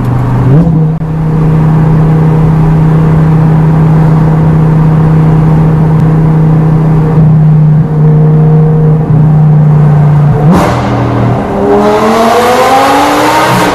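Lamborghini Gallardo LP560-4's V10 through an Armytrix exhaust, heard from inside the cabin: a steady drone at constant revs, then about ten seconds in the note changes and the revs climb steeply as the engine is opened up.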